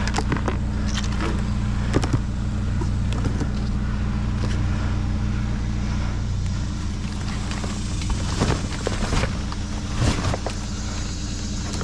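Steady low engine hum, like a vehicle idling, with scattered clatter and rustling of items being moved and handled through the dumpster's contents.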